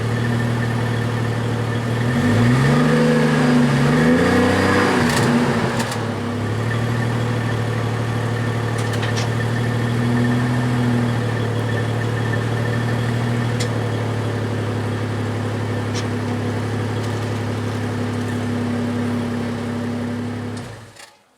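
Exhaust of a Chevrolet Trailblazer's 4.2-litre inline-six with the resonator replaced by a straight pipe. It idles steadily, is revved twice in quick succession a couple of seconds in, settles back to idle, and cuts off near the end.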